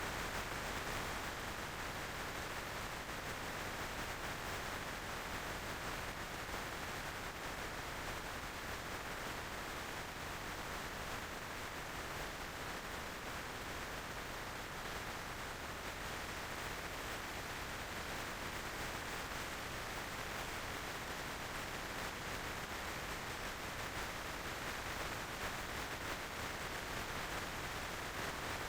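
Steady rush of wind and road noise from a motorcycle on the move, an even hiss with no distinct engine note.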